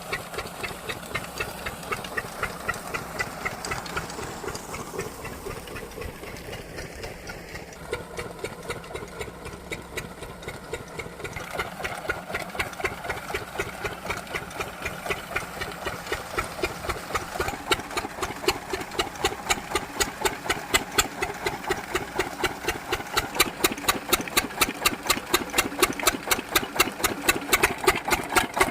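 12-horsepower diesel water-pump engine running, with a steady rapid beat of firing knocks that grows louder in the second half.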